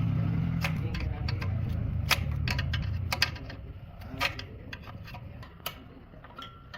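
Engine running with a low, steady hum that fades out about three to four seconds in, with scattered sharp clicks and ticks.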